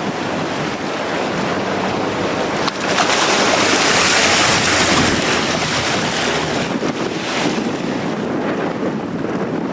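Strong wind buffeting the microphone over the rush of surf, with a stronger gust about three seconds in that lasts a couple of seconds.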